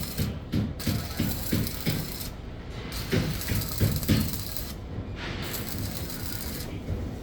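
Mechanical clatter: a run of short, uneven knocks, about two or three a second, for the first four seconds or so, then a steadier rattle.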